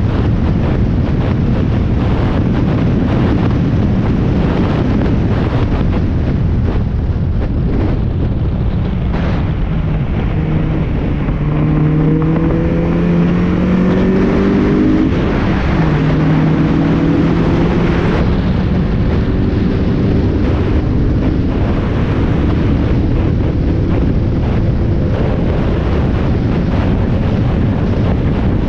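Spec Miata race car's four-cylinder engine at full throttle on track, heard from an onboard camera under heavy wind noise. Midway through, the engine note climbs, drops sharply at an upshift, then climbs again.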